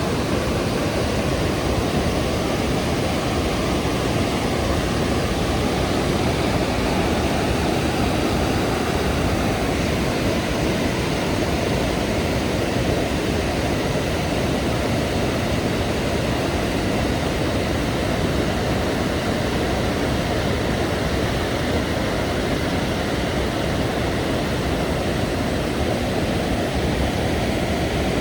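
Steady rushing of a large river waterfall, the Rhine Falls: a dense, unbroken wash of falling water that holds the same level throughout, heaviest in the low and middle range.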